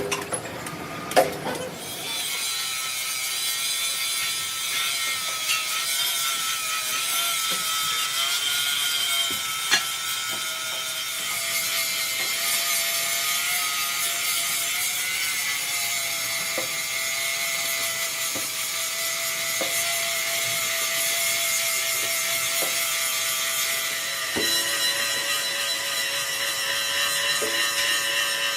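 Metalworking machine running on steel plate, a steady hiss with a high whine whose pitch drifts slightly. It starts about two seconds in, after a few metal clinks.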